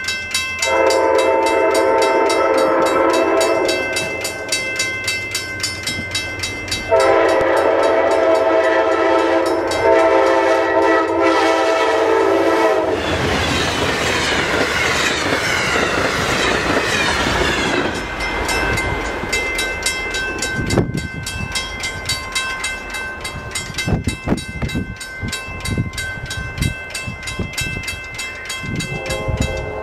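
Amtrak passenger train sounding two long horn blasts as it approaches a grade crossing, over a crossing bell ringing steadily. About thirteen seconds in, the train rushes past with a loud wash of wheel and wind noise, then the clickety-clack of its wheels over the rail joints dies away as it recedes.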